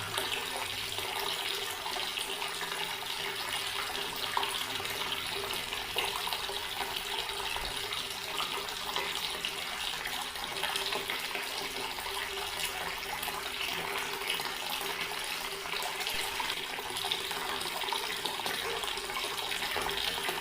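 Water tap running steadily, a continuous stream splashing without a break, with a faint steady tone beneath it.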